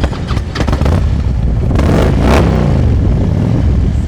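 2008 Harley-Davidson Street Glide's V-twin running through a Vance & Hines True Dual exhaust. It idles with a low rumble and is revved once about two seconds in, then falls back to idle.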